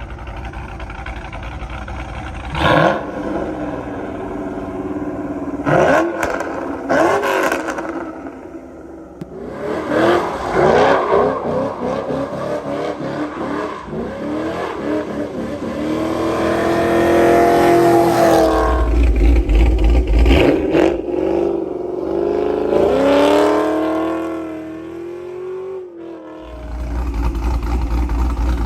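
Cammed 5.3-litre V8 of a GMC Sierra with long-tube headers and a stage 4 cam, revving and accelerating: a few sharp rev blips, then several longer pulls where the engine note climbs and drops back, with a deep low rumble between pulls and near the end.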